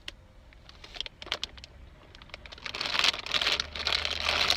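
Plastic snack wrapper crinkling: a few scattered rustles, then continuous, louder crinkling from about three seconds in.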